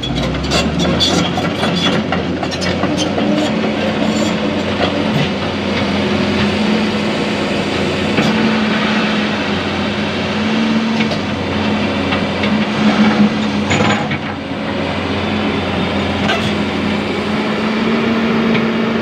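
Heavy diesel machinery running steadily, with frequent clatters and knocks as an excavator works a dump truck's load.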